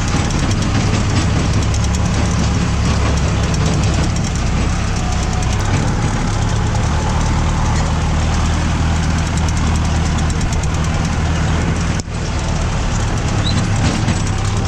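Mahindra tractor's diesel engine running steadily, a low drone with a fast clatter over it. It drops out briefly about twelve seconds in and picks up again.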